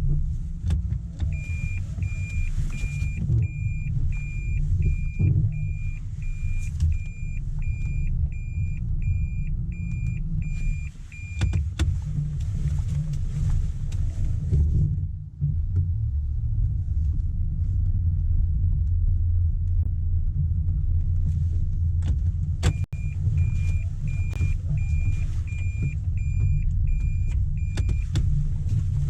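Car driving with a steady low road and engine rumble inside the cabin. Over it, a high electronic chime beeps about twice a second for roughly ten seconds, stops, and starts again for about five seconds near the end. There are a few sharp clicks, the loudest just before the second run of beeps.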